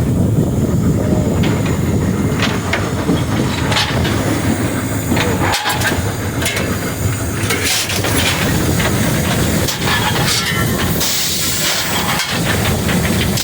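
Frisco 1630, a 2-8-0 steam locomotive, running as heard from inside its cab: a heavy steady rumble with frequent clanks and knocks, joined about eleven seconds in by a loud hiss of steam.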